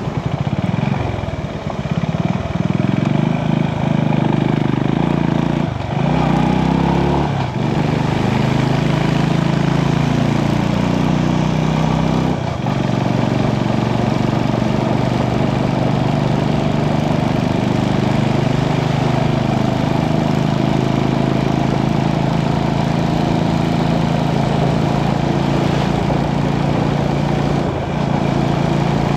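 Motorcycle engine running while riding, its pitch rising and falling with the throttle, with brief dips a few times in the first half.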